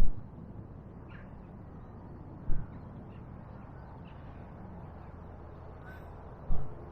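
Outdoor riverside ambience: a low steady rumble with a few faint, brief bird calls, and short low bumps on the microphone at the start, about two and a half seconds in, and near the end.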